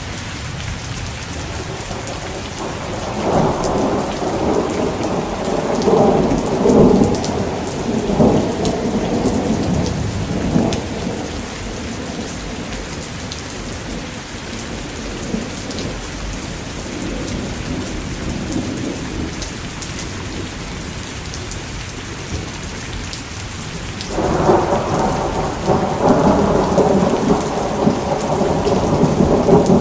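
Steady rain with rolling thunder: one long rumble swells and fades over several seconds early on, and a second rumble builds about 24 seconds in and carries on to the end.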